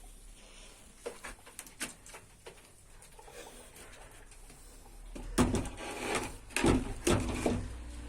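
Quail moving and calling in a coop: a few light clicks and scratches, then a louder stretch of rustling and bird sounds from about five seconds in.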